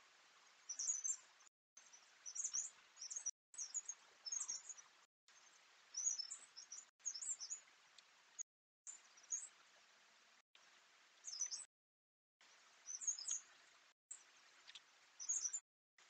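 Small woodland birds chirping in short high calls over a steady hiss, in choppy snippets cut apart by brief dead silences, played at three times speed.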